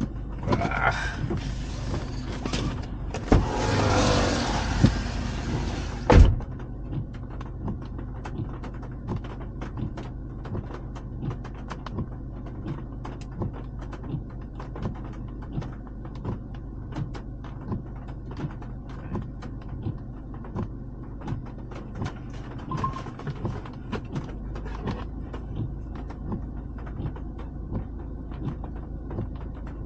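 Car driving in the rain: a steady low engine and road hum with many irregular light taps of raindrops. A louder rush of noise for the first six seconds cuts off with a sharp thump.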